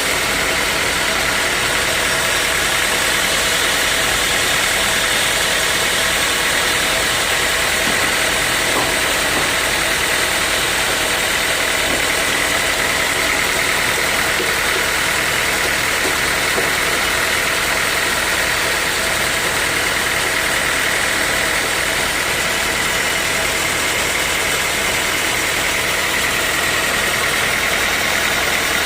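Sawmill machinery running steadily: a continuous engine-like drone with a faint high whine that wavers slightly in pitch.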